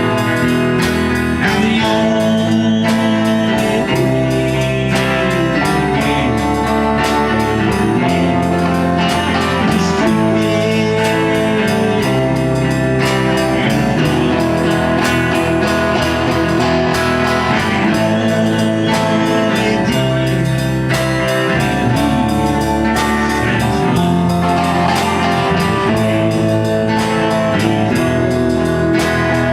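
A band playing an instrumental stretch of a blues-rock song: guitars with bass and drum kit keeping a steady beat.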